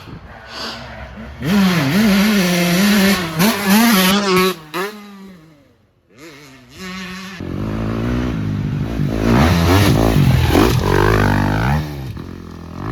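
Dirt bike engine revving up and down, in two loud stretches with a brief near-silent gap about six seconds in.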